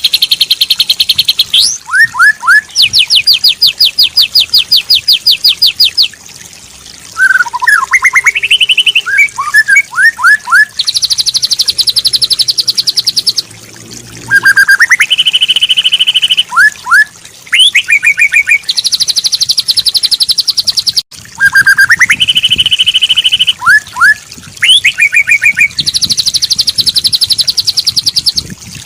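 White-rumped shama song: loud, fast high trills of rapid repeated notes, each lasting a few seconds, alternating with short rising whistles and chirps, in phrases that recur several times.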